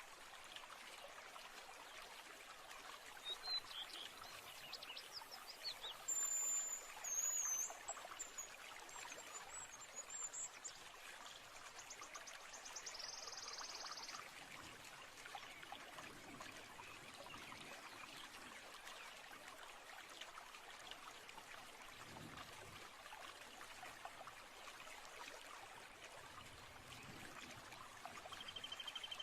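Faint, steady babbling of a flowing stream, with birds calling now and then on top: a short rising call a few seconds in, high whistles around six to eight seconds, a buzzy trill near fourteen seconds and another short trill at the very end.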